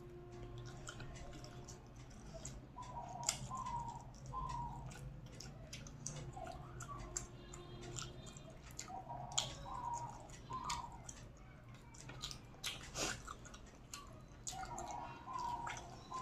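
A person chewing and eating close to the microphone, with irregular wet clicks and mouth smacks.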